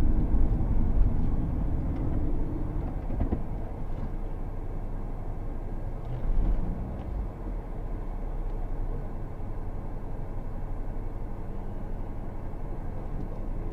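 Low, steady car engine and road rumble heard from inside the cabin. It is louder for the first couple of seconds while the car is still moving, then settles into a steady idle hum once it stops in traffic, with a brief swell about six seconds in.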